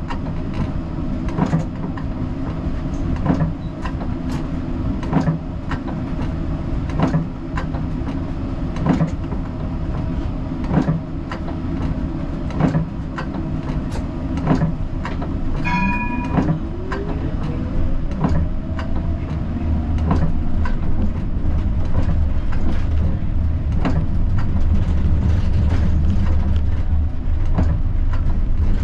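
Siemens Combino 13G tram running on street track, wheels clicking over rail joints about every two seconds. About halfway a short electronic chime sounds, then the traction motor whine rises in pitch as the tram accelerates, followed by a louder steady low rumble.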